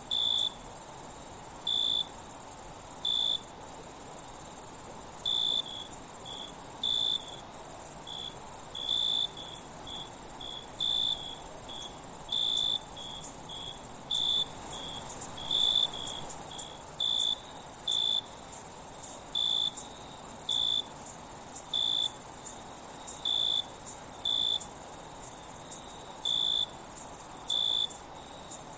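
Night insect chorus: a steady high-pitched trill with short, lower chirps repeating irregularly about once or twice a second. A few brief dropouts break the sound.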